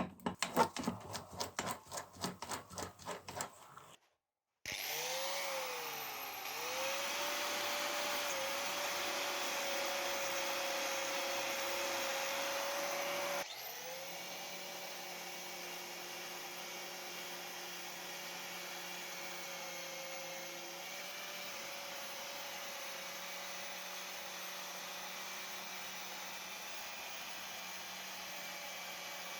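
A quick series of sharp knocks, several a second, for about four seconds. Then, after a short gap, an electric power tool spins up and runs steadily, working on the metal of an old rusted anvil. Its sound drops in level abruptly about halfway through and then carries on steadily.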